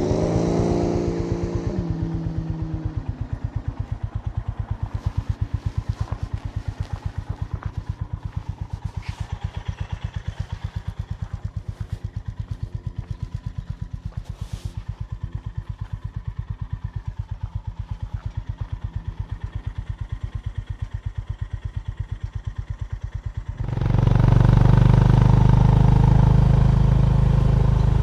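Honda GB350's single-cylinder engine winding down as the bike slows, then idling with a steady, even thumping beat. About 24 seconds in the sound cuts abruptly to a louder, steady engine sound.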